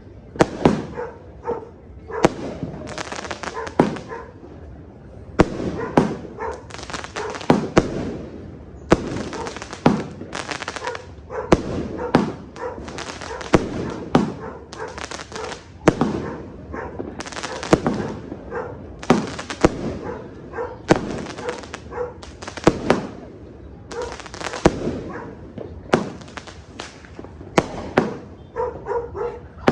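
LF Fireworks 'Vessel' 330-shot fireworks cake firing in rapid succession. Sharp bangs come about one or two a second, each trailing off in an echo.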